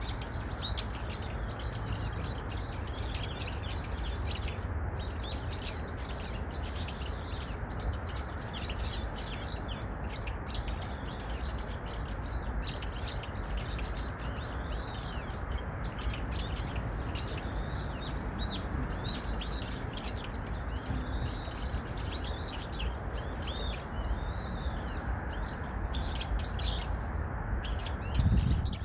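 Small birds chirping: a dense, continuous chorus of many short, rapid, overlapping high notes, over a steady low background rumble. A brief low thump comes near the end.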